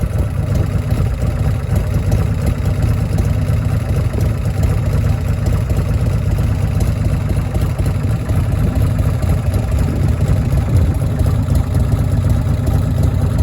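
Buell motorcycle engine idling steadily.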